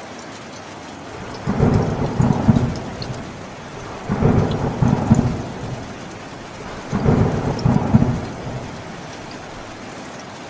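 Steady rain with three rumbles of thunder, each lasting about a second and a half and coming about three seconds apart.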